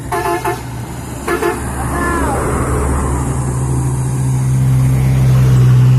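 A heavy truck's engine runs and grows louder toward the end. Two short bursts of a multi-tone horn sound near the start and about a second in.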